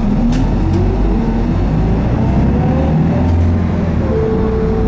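Isuzu Erga city bus's four-cylinder diesel engine running under load, heard from inside the cabin, its pitch rising in the first half second. A steady whine joins about four seconds in.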